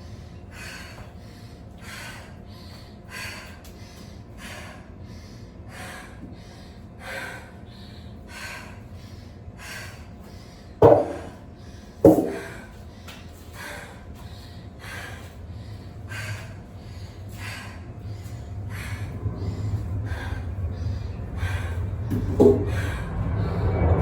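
A person breathing hard and fast during exercise, short sharp breaths repeating steadily about one and a half to two times a second. Two loud thumps come about a second apart midway, and a low rumble builds in the last third.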